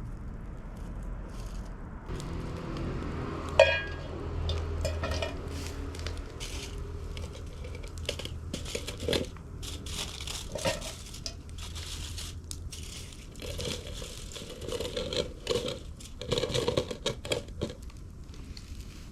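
Handling noises: crinkling and rustling with scattered clicks and knocks, and one sharp ringing clink about three and a half seconds in.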